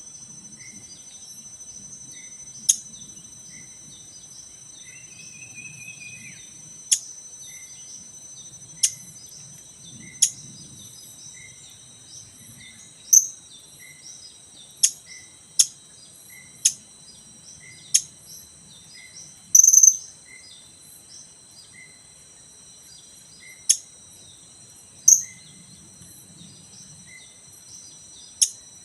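Blue-crowned hanging parrots (serindit) giving short, sharp, very high chirps, one every second or few seconds, over a steady high-pitched drone of insects.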